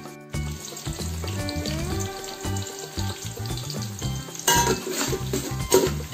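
Sliced onions and whole spices sizzling in hot ghee and coconut oil in an aluminium pot while a metal spoon stirs them, with two louder spoon strokes against the pot near the end.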